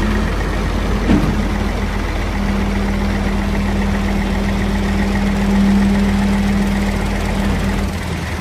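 Peterbilt 387 dump truck's CAT C15 diesel engine idling steadily, with a single click about a second in.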